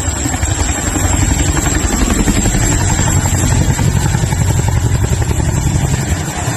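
Helicopter flying over with a rapid, steady beat of rotor blades.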